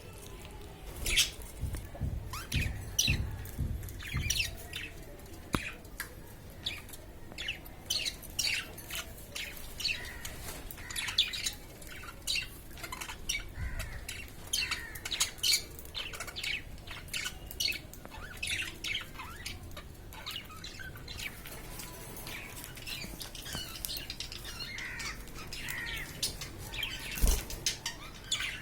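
Budgerigars chirping and squawking: a busy run of short, sharp calls with brief pauses between them.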